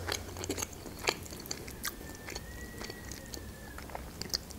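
Close-up mouth sounds of a person chewing dolma (grape-leaf rolls): scattered soft wet clicks and smacks. A faint, thin, steady high tone runs for about two seconds in the middle.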